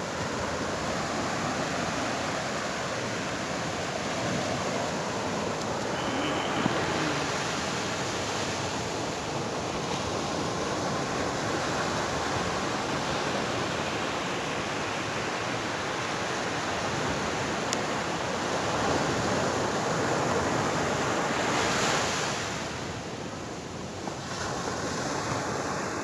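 Sea surf washing onto a beach, a steady rush that swells louder several times, most strongly near the end, with some wind on the microphone.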